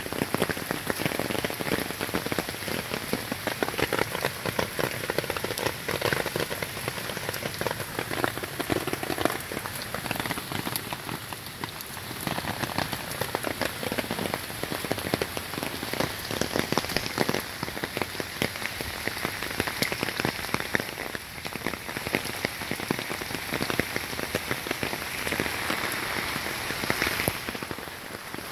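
Hurricane Harvey rain falling steadily, a dense patter of drops on wet paving, plants and the backyard around an air-conditioning unit.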